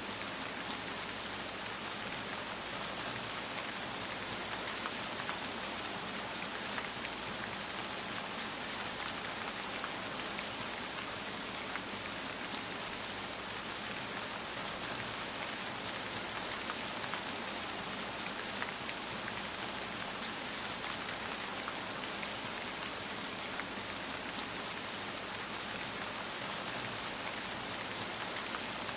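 Steady rain falling: an even hiss with fine drop ticks scattered through it, unchanging throughout.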